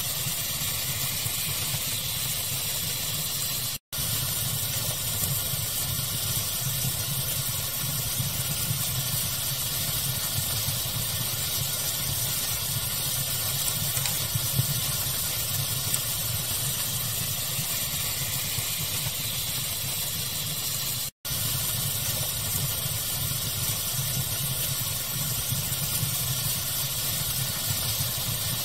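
Steady fire ambience mixed as pink noise: an even hiss over a low rumble. It cuts out completely for an instant twice, about 4 seconds in and again about 21 seconds in.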